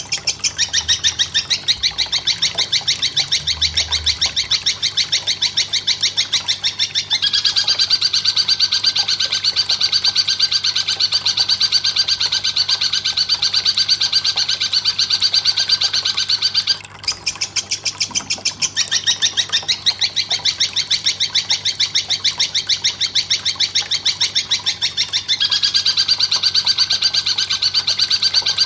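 Bird-training (masteran) recording of a bird calling in fast, evenly repeated chattering notes, about four to five a second. The call changes in pattern a few times, as different call segments are looped.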